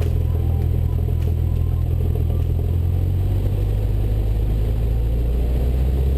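Cessna 172 Skyhawk's piston engine and propeller running in a steady low drone during the takeoff run-up. Its pitch shifts slightly partway through and again near the end.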